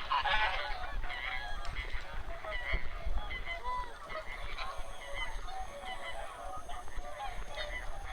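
A large flock of wild geese honking, many short calls overlapping in a steady chorus.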